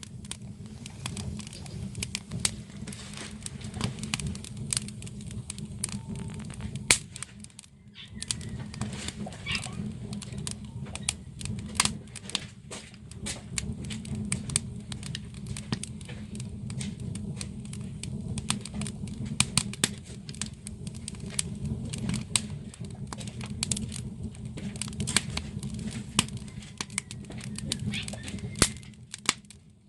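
Wood fire burning, with many sharp irregular crackles and pops over a steady low rumble of the flames.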